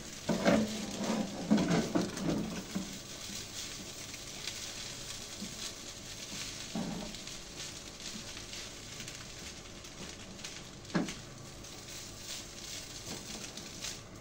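Food frying in a pan with a steady sizzle. A spatula stirs and scrapes against the pan in the first few seconds, with another knock about seven seconds in and a sharp single knock about eleven seconds in.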